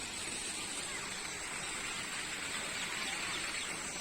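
Faint bird chirps in a bird park's aviary, over a steady hiss of outdoor ambience with a constant high-pitched tone running through it.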